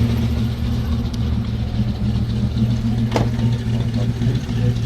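Alfa Romeo Montreal's 2.6-litre V8 idling steadily, with a single sharp click about three seconds in.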